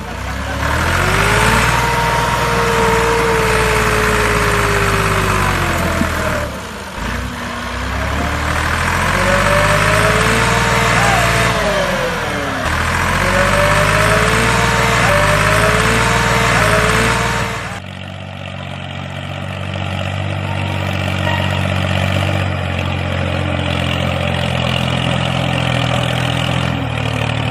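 A DIY model tractor's motor running under changing load, its whine rising and falling in pitch over a gear hiss. About two-thirds of the way through, the sound drops to a lower, steadier running note.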